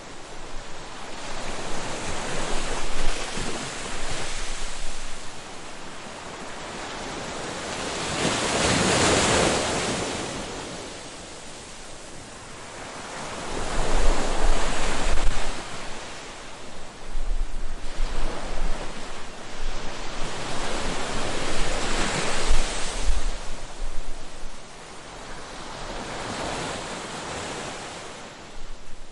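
Ocean waves breaking on a beach, surf washing in and out in repeated swells, one bigger wave about a third of the way through.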